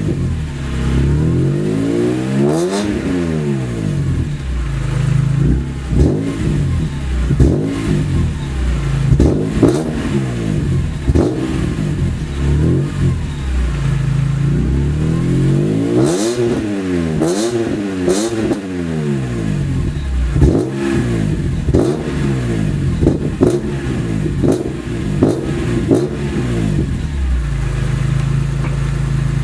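BMW E46 M3's S54 straight-six engine, stationary, idling and being revved repeatedly through a Megan Racing aftermarket exhaust: short throttle blips that rise and fall in pitch, a few bigger revs in the middle, then settling back to a steady idle near the end.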